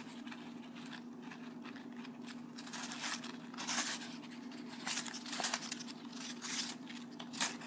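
Packaging paper and cotton string rustling and scratching in short bursts as the string is wrapped and tied off by hand, over a steady low hum.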